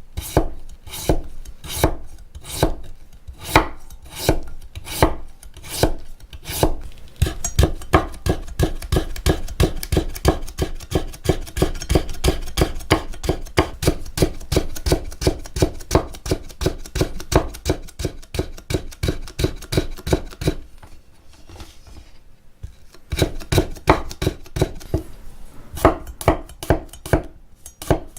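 Kitchen knife chopping on a cutting board: a steady run of sharp strokes, quickening in the middle to a fast rhythm of about four or five a second, stopping for a couple of seconds near the end, then starting again.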